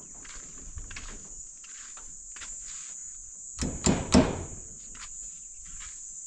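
Crickets trilling steadily at a high pitch, with a couple of loud knocks a little past the middle.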